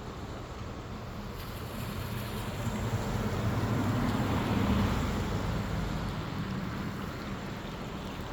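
Motorcycle engine running under way with wind noise, getting louder from about a second and a half in, peaking around the middle and easing off again.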